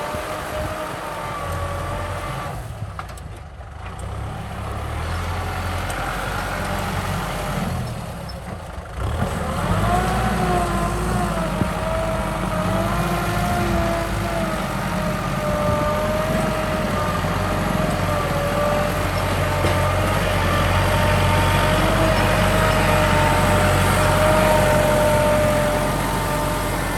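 Kubota M6040 SU tractor's four-cylinder diesel engine running under load while plowing, with a steady drone and a wavering tone. The sound drops away briefly twice, then comes back louder from about nine seconds in.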